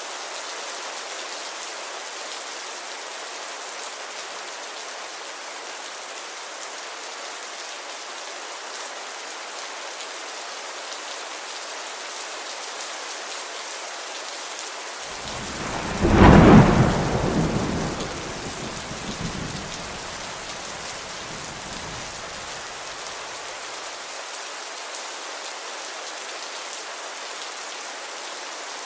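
Steady rainfall hissing, with one clap of thunder just past the middle: it builds quickly to a loud crack, then rumbles away over several seconds.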